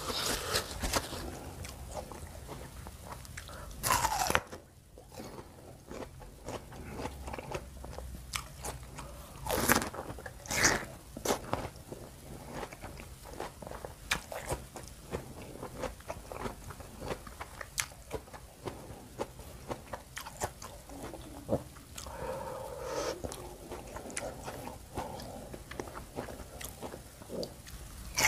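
Close-up crisp biting and chewing of fresh wax apple (jambu air), a run of crunches and wet chewing clicks, with a few louder bites about four and ten seconds in.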